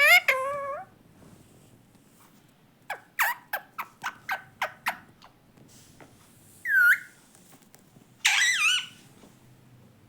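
Pet parrot calling in separate bursts: a warbling call at the start, a quick run of about nine short sharp chirps, a single swooping call, then a wavering call.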